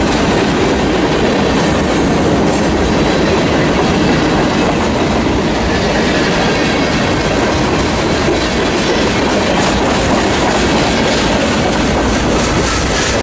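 Freight train cars rolling past, loud and steady, the wheels clicking over the rail joints.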